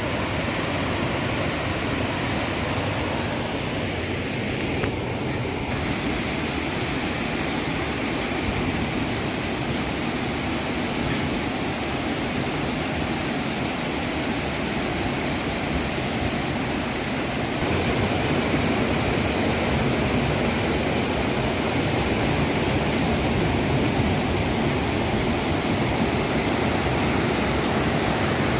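Waterfall's water pouring down onto rocks: a steady, even rushing noise that grows a little louder about two-thirds of the way through.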